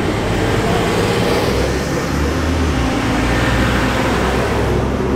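Sports car engines running at low speed as the cars roll past one after another, a steady low engine note with no hard revving.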